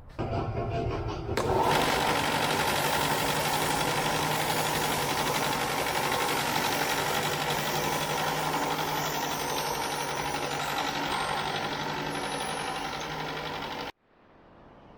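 Electric power tool running steadily for about fourteen seconds, getting louder about a second and a half in, then cutting off abruptly.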